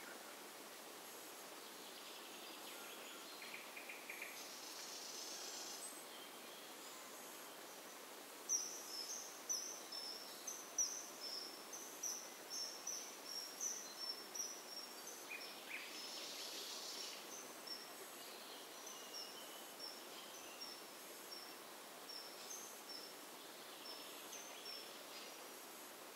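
A small bird giving a long run of short, high chirps, about two a second, starting about eight seconds in, over quiet outdoor background noise.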